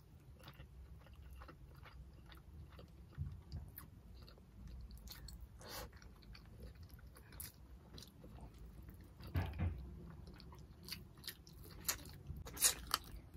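Two people chewing mouthfuls of tilapia stewed in coconut milk with rice, eaten by hand close to the microphone: scattered soft mouth clicks and wet chewing sounds, with a few louder ones near the end.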